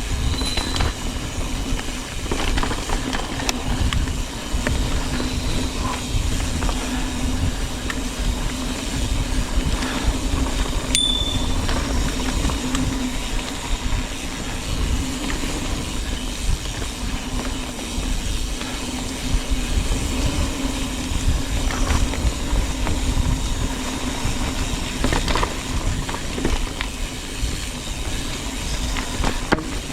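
Mountain bike being ridden along a dirt trail: continuous tyre and rattle noise with a steady hum, scattered clicks and knocks from the bike, and wind rumbling on the action camera's microphone.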